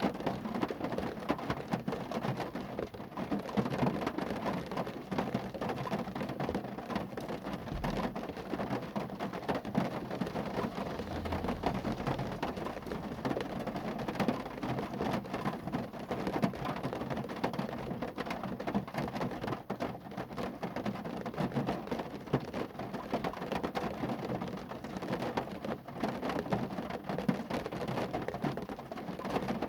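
Steady rain falling on a car, a dense, even patter of drops striking the body.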